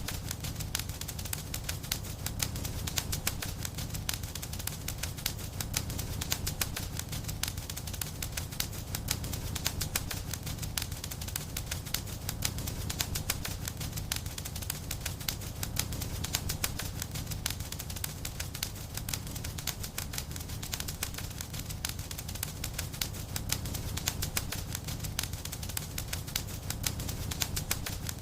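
Wood fire crackling and popping steadily in a fireplace: a dense run of irregular snaps over a low, steady rumble of flame.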